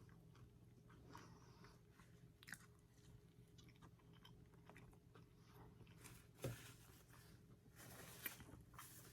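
Faint close-up chewing of french fries: soft crunches and wet mouth sounds, with a louder bite about six and a half seconds in.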